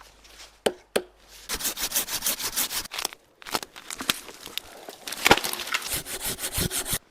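Dry wood being broken and torn by hand: two knocks, then runs of rapid cracking and tearing, with one sharp loud crack about five seconds in.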